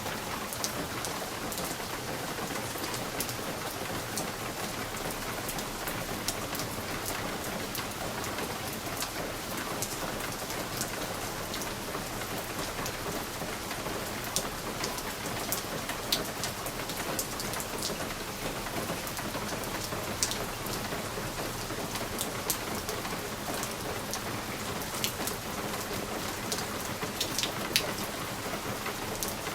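Steady rain pattering on window glass, with individual drops ticking sharply here and there over the even hiss.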